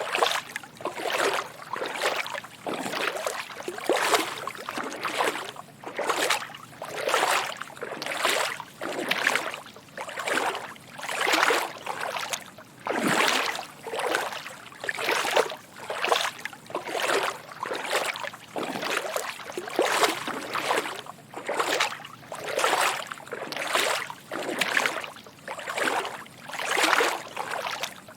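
Footsteps wading through shallow water: soft sloshing splashes in a steady rhythm, about one step a second.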